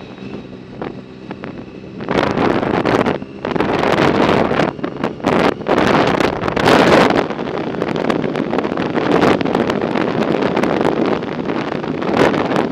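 Wind buffeting the microphone of a moving bicycle in loud, uneven gusts, starting about two seconds in. Before that it is quieter, with a faint steady hum.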